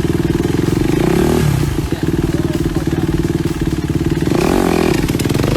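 Motor vehicle engine running with a fast, even pulse. It rises briefly in pitch about a second in, then revs up with a rising pitch near the end.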